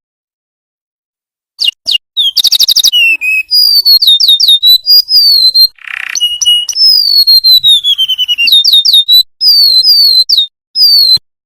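Golden-bellied gerygone (remetuk laut) singing: a series of high, thin, downward-slurred whistles, with a fast trill about two seconds in and a long falling whistle near the middle. The song starts after about a second and a half of silence.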